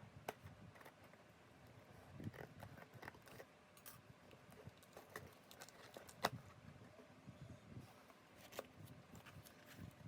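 Faint, scattered clicks and light knocks of small objects being handled, the sharpest a single tap about six seconds in.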